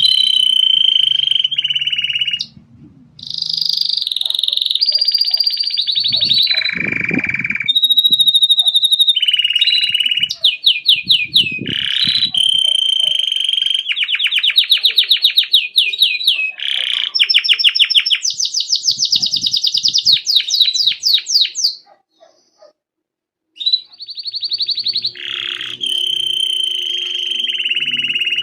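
Belgian canary singing a long song of rapid trills, rolls and held notes. The song breaks off briefly about three seconds in and again for a second or two about three-quarters of the way through.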